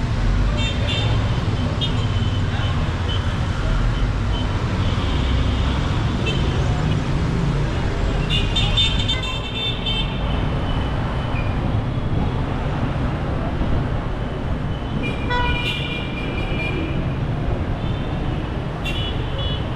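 Busy city street traffic: a steady rumble of car and motorbike engines, with car horns honking several times, a longer honk about nine seconds in and more honks later on.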